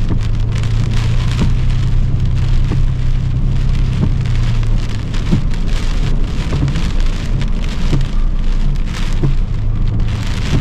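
Rain pattering on a car's roof and windshield, heard from inside the cabin during a hurricane, with a low steady hum from the vehicle that drops away about five seconds in and returns near the end.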